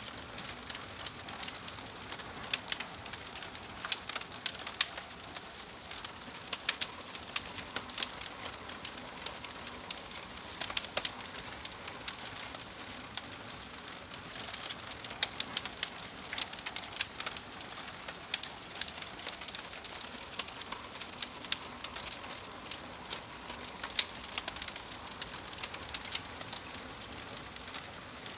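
Crackling fire: a steady hiss with many irregular sharp pops and snaps.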